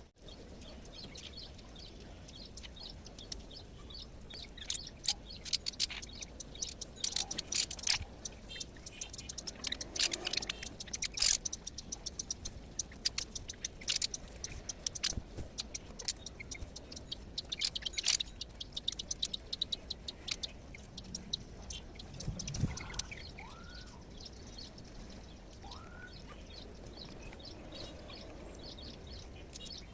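Small birds chirping at a feeding spot: a dense run of short, high chirps, busiest in the middle and thinning toward the end, with a few short rising calls late on.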